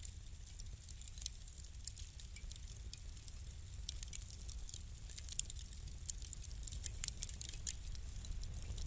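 Wood fire crackling: many small, sharp snaps and pops over a low, steady rumble of the burning. The crackles come thicker about halfway through.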